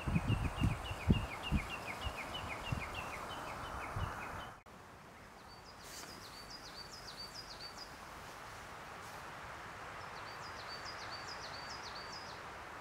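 Forest ambience with small birds calling. A fast run of repeated chirps, about three or four a second, is joined by a few dull low thumps in the first seconds. After a sudden break, a bird sings two short phrases of higher repeated notes.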